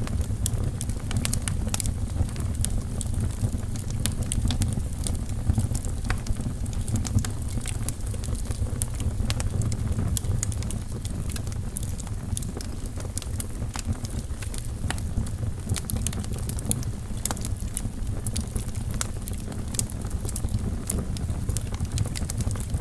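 Wood fire burning in a fireplace: logs crackling with frequent small, irregular pops over a steady low rumble of the flames.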